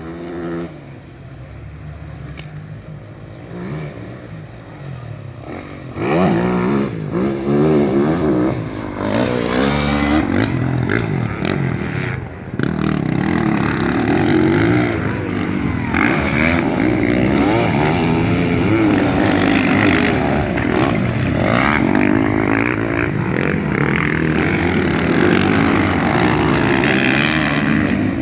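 Racing motorcycle engines revving as the bikes pass, their pitch rising and falling. They are moderate at first and become loud from about six seconds in.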